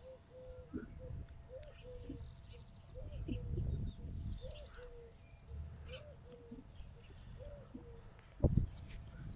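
Doves cooing: a low two-part call repeated about once a second, with small birds chirping higher up. A single loud thump near the end.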